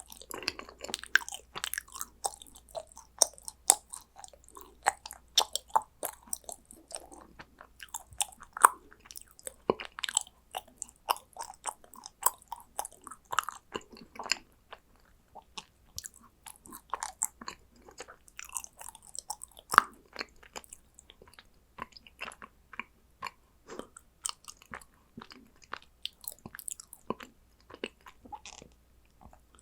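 Chewing and biting of yakgwa, Korean fried honey cookies: a steady run of small mouth clicks, with a few louder bites about a third and two thirds of the way in.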